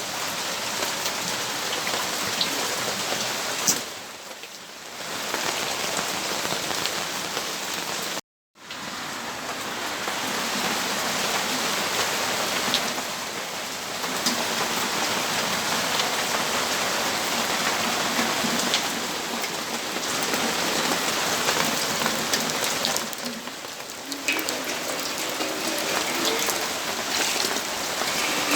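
Steady rainfall, an even hiss with scattered drop ticks, easing briefly twice. About eight seconds in it cuts out to total silence for a moment, then resumes.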